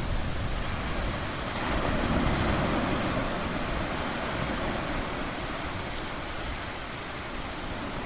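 Ocean surf: a steady wash of waves, one swelling about a second and a half in and slowly easing off. A low rumble dies away at the start.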